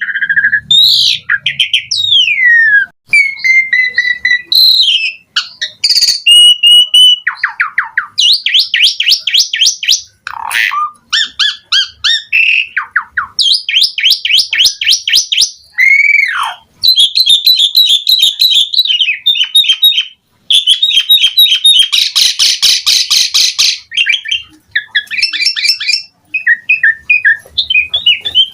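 Asian pied starling (jalak suren) singing a long, varied song stuffed with mimicked phrases. It mixes clear whistles and falling glides with fast trills of repeated notes. About two-thirds of the way through comes a harsh, buzzy stretch, and it ends in quick chattering notes.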